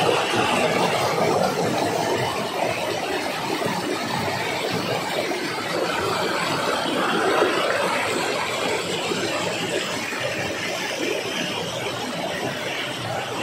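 Waterfall water rushing: a steady, even rush of falling water.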